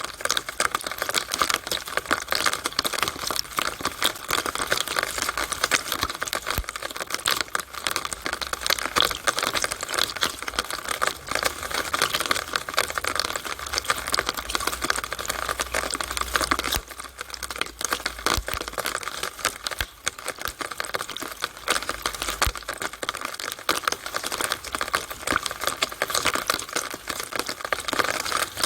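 Rainwater running through a downspout on a rainy day: a steady, dense patter of drops and splashes.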